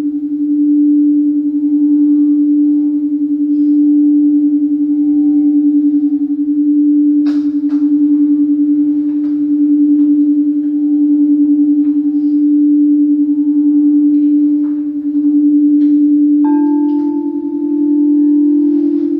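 Quartz crystal singing bowls ringing: one sustained low, pure tone that swells and fades about once a second, with a few brief ticks. About three-quarters of the way through, a second bowl with a slightly higher note joins in.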